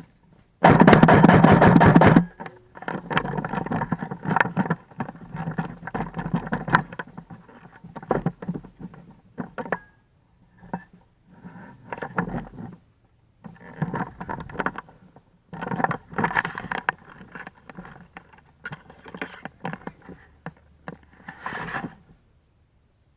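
An airsoft gun firing a loud, rapid full-auto burst of about a second and a half, a little under a second in, followed by intermittent shorter bursts of clatter and rustle on and off.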